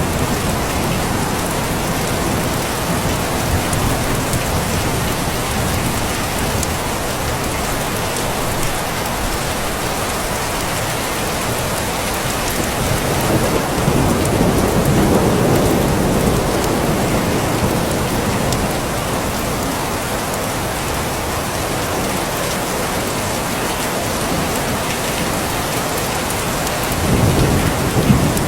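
Steady, heavy rain falling, with a low rumble of distant thunder swelling about halfway through and again near the end.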